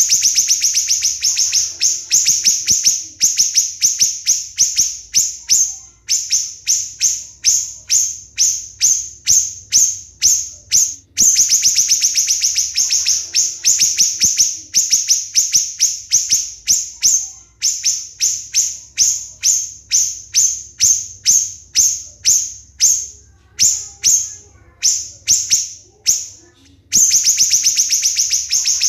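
Siri-siri bird singing a fast, tight series of sharp, shrill high notes, several a second, broken by dense rapid trills at the start, about eleven seconds in and near the end. These are the close-set "tembakan" (shots) that keepers prize as tutor song.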